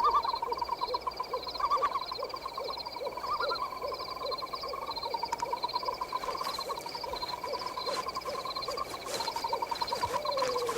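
Night-forest sound effects: steady, layered trills with a low call repeated about twice a second, and a longer falling call near the end.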